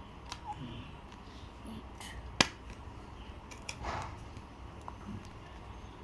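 A small paper diary being handled to pull out a page: scattered light clicks and short paper rustles, with one sharp click about two and a half seconds in.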